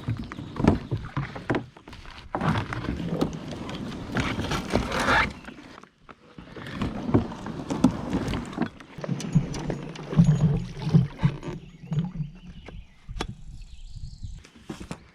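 Kayak being paddled and handled: irregular water strokes and knocks against the hull, with a short pause about six seconds in.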